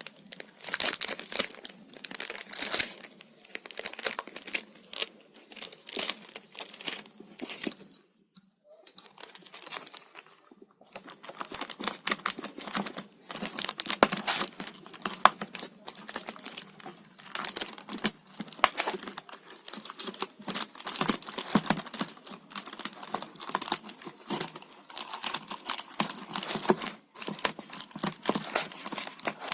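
Sellotape being pulled off the roll, torn and pressed down by hand: a dense run of crackling and crinkling, with a short pause about eight seconds in.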